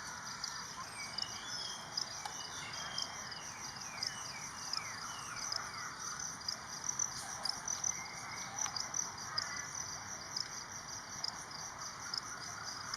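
A steady, high, rapidly pulsing insect chorus, with a run of short falling bird notes about a second in that die away after a few seconds.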